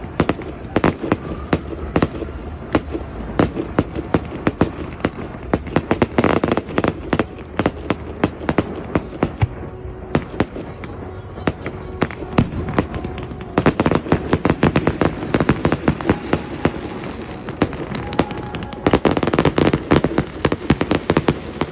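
Fireworks display: a rapid, continuous run of bangs and crackles, with dense flurries about six seconds in, from about fourteen to sixteen seconds, and again near the end.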